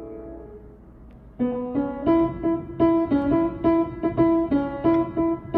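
A keyboard instrument played by hand. A held chord fades away over the first second and a half, then a quick run of short single notes follows, about three or four a second, moving between a few nearby pitches.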